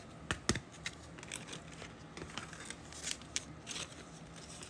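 Football trading cards and a foil pack wrapper being handled: scattered crinkles and sharp clicks, with a few louder snaps near the start and again about three seconds in.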